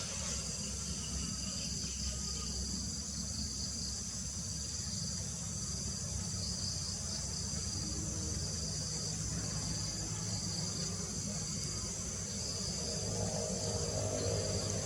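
A steady, high-pitched chorus of insects, crickets or similar, shrilling continuously with a slight pulsing, over a low rumble.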